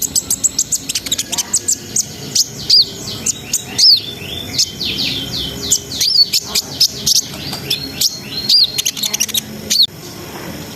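Kolibri ninja sunbird (konin) singing hard: a rapid, unbroken string of sharp high chirps and fast rippling trills, the full 'gacor' song that keepers play to fire up other birds. The song breaks off near the end.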